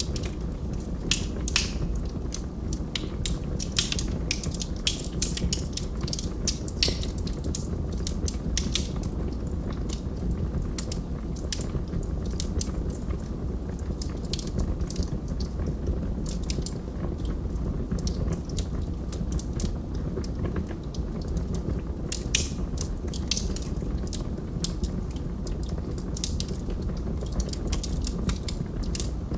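Wood logs burning in a fireplace: frequent, irregular crackles and sharp pops over a steady low rumble of the fire.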